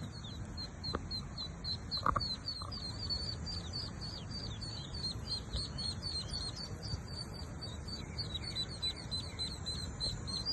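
Ducklings peeping: a steady run of short, high, falling chirps, several a second, over a low background rumble.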